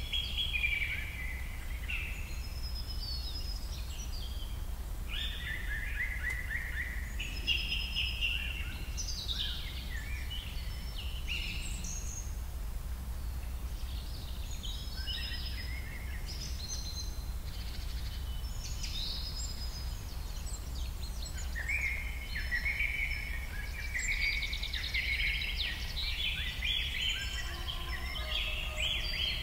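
Small birds chirping and warbling in quick, overlapping phrases over a steady low hum.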